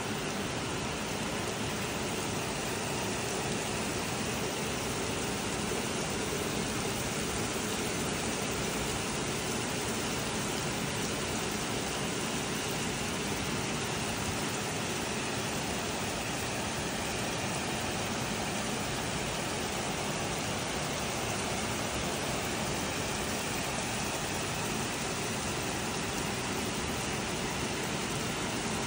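Heavy rain falling steadily on grass, a gravel path and trees: a dense, even hiss that holds at one level throughout.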